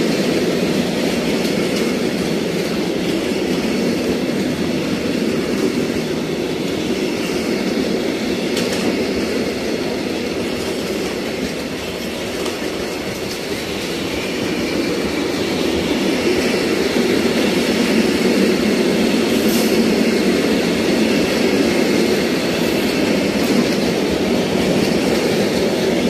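Freight train of flat wagons loaded with rails rolling past: a steady rumble of wheels on the track, with a few sharp clicks along the way.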